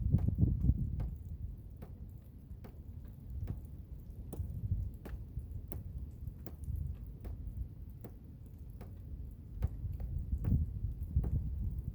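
Blizzard wind gusting as a low, uneven rumble that swells at the start and again near the end, with scattered sharp ticks, about one or two a second, of something striking a hard surface.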